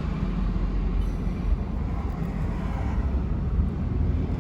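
Steady low rumble of vehicle engines and traffic on a congested highway, with no sudden events.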